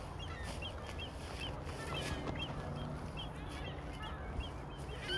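A flock of wetland waterbirds calling at once: a steady chatter of many short, high calls, several a second, over a low steady rumble.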